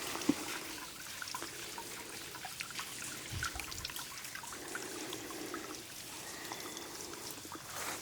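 Low-flow small waterfall trickling and splashing, a steady water sound with small drips.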